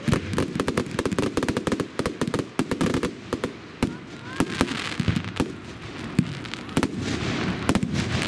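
Fireworks display: a rapid barrage of crackling reports and bangs, thinning out about halfway, when a steady hissing fizz takes over.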